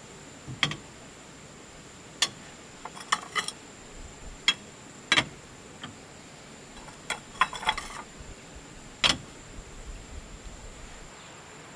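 Sharp clicks and clinks of small hard objects being handled, some single and some in quick little clusters, a second or two apart.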